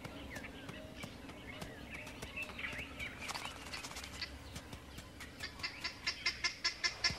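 Wild birds calling in dry bush: scattered short chirps, then from about five seconds in a rapid repeated high call, about four notes a second, growing louder.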